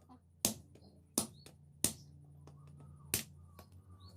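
Hammer striking metal: four sharp blows, unevenly spaced, over a steady low hum.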